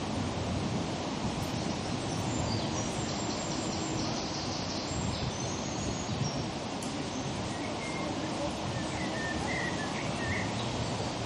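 Open-air background noise with a rumble of wind on the microphone, and small birds chirping: a quick run of high chirps a few seconds in and a few short calls near the end.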